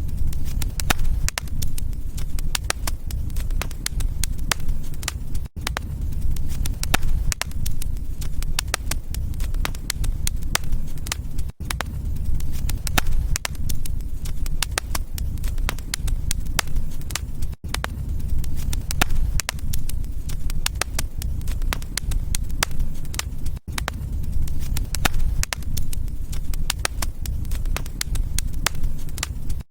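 Wood fire crackling: a dense run of small pops and snaps over a low, steady roar of flame. The sound drops out for a moment about every six seconds.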